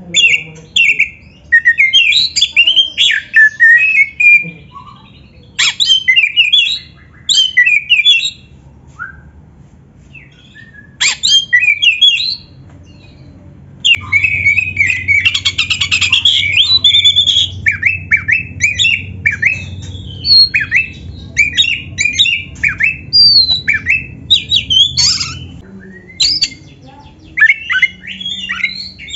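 Oriental magpie-robin singing in bursts of rapid, varied whistled and harsh notes, with pauses of a second or two between phrases. A low hum sits under the song through the middle stretch.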